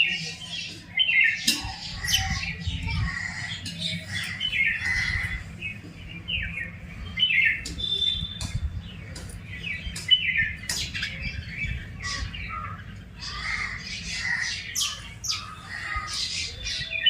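Several birds chirping and squawking, short overlapping calls one after another, over a steady low rumble.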